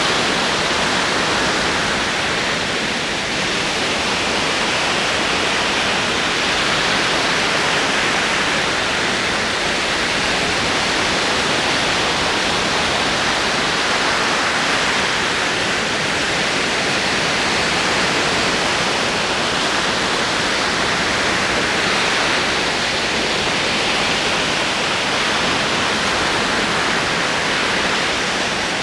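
Ocean waves rolling and breaking on a shore, a steady wash of surf that swells and eases gently every few seconds.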